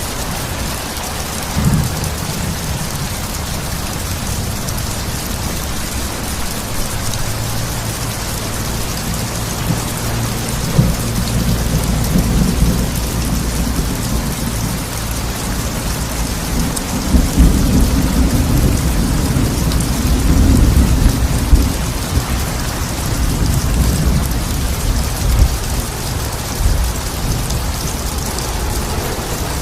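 Steady rain falling with rolling thunder, the rumbling building to its heaviest about halfway through and easing towards the end.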